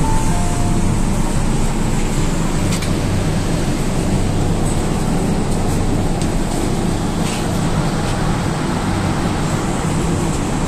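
Interior running noise of an MTR K-train electric multiple unit: a steady rumble with a low hum as the train runs in and comes to a stop at a station.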